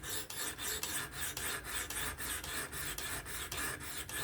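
Sharpening stone rasping in quick, even back-and-forth strokes across a Spyderco Kapara's S30V steel blade, clamped in a Work Sharp Professional fixed-angle sharpener.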